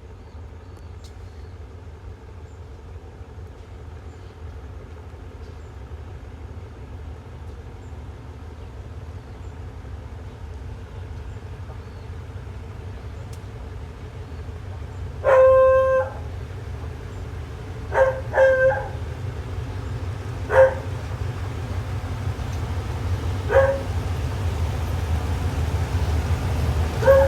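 A dog barking about six times in the second half; the first bark is long and drawn out, the rest short. Under it runs a steady low wind rumble that grows slowly louder.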